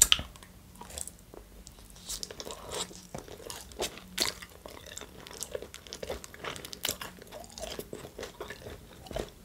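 A bite into a chicken shawarma wrap at the very start, then chewing with scattered short crunches and crackles, close to the microphone.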